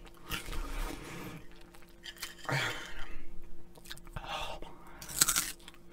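Crunchy Flamin' Hot Cheetos being bitten and chewed close to the microphone: irregular crackly crunches. The loudest, sharpest burst comes about five seconds in.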